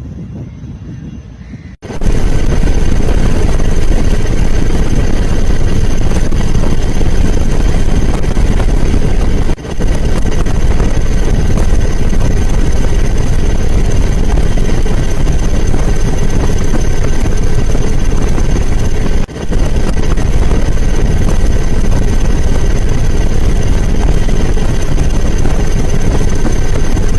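Loud, steady engine noise with a thin, steady high whine over it, starting about two seconds in and dipping out briefly twice.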